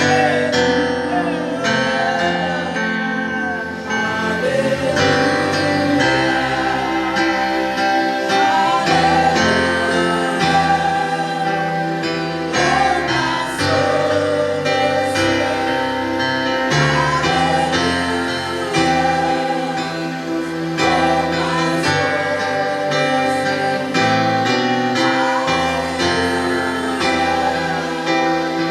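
Gospel worship music: a choir singing over sustained instruments and a steady bass line.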